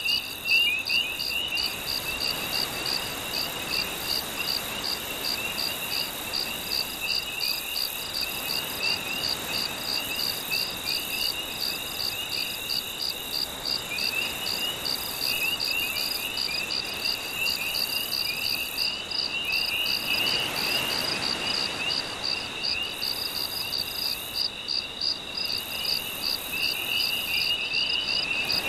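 Night chorus of crickets: an even, pulsing chirp repeating several times a second over a band of warbling trills. A soft wash of gentle waves runs underneath and swells briefly about twenty seconds in.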